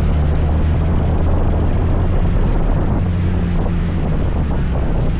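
Scooter engine running steadily while riding, a low hum that shifts slightly in pitch about three seconds in, with wind buffeting the microphone.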